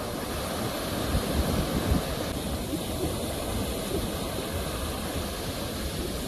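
Sea waves washing on a shore: a steady rush of surf that swells a little between one and two seconds in.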